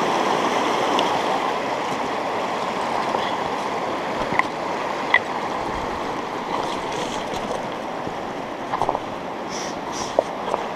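A river rushing steadily. A few short, sharp clicks and knocks sound over it, in the middle and near the end.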